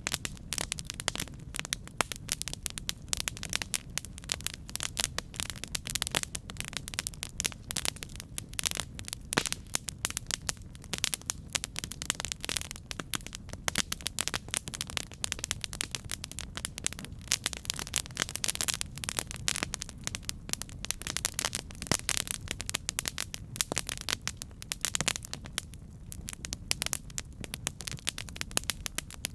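Campfire burning: dense, irregular crackling and popping of burning wood over a steady low rumble of the flames.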